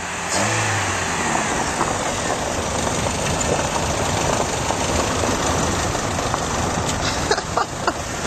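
A 1997 Chevrolet Cavalier's engine runs as the car drives, breathing through a homemade open snorkel intake pipe with no hood, under a steady rushing noise.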